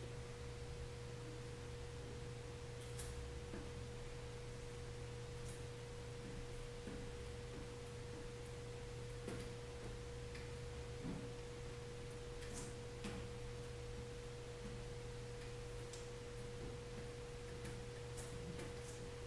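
A steady, faint pure tone and a low electrical hum with no speech, sprinkled with a few faint soft clicks.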